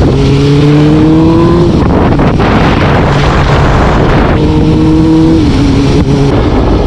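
Vehicle engine accelerating: its pitch climbs steadily and drops at a gear change about two seconds in, then climbs again and drops with another shift a little past the middle. In between comes a few seconds of loud rushing noise.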